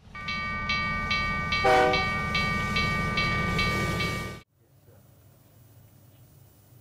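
Train running with a low rumble, a steady high whine and a rhythmic clack about twice a second, plus a short horn blast just under two seconds in. The sound cuts off abruptly about four and a half seconds in, leaving faint room tone.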